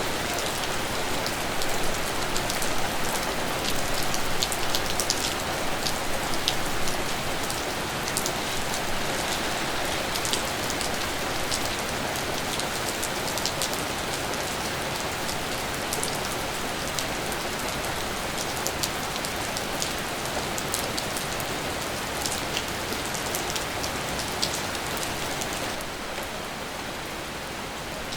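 Steady rain falling, a constant hiss with many individual drops ticking sharply and close. It eases slightly near the end, with fewer sharp drop sounds.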